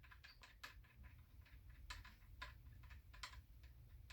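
Faint, irregular light clicks and taps of a small metal bolt and parts being handled while the bolt is fitted into an automatic transmission valve body, a few clicks standing out about two and three seconds in.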